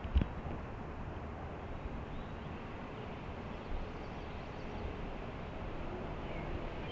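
Steady low outdoor background rumble, with a single short knock just after the start and a few faint chirps near the end.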